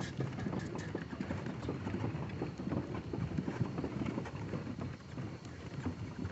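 Old tractor engine running, with a rapid, uneven low knocking.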